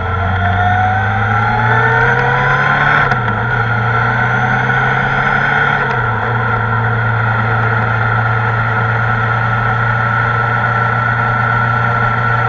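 Kawasaki ZR-7S inline-four engine pulling hard with its pitch rising for about three seconds. The pitch dips at an upshift about three seconds in and again about six seconds in, then holds a steady note at cruising speed.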